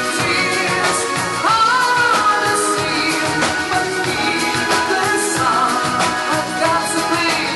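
A live dance band playing a pop ballad, with a singer's voice held over a steady drum beat.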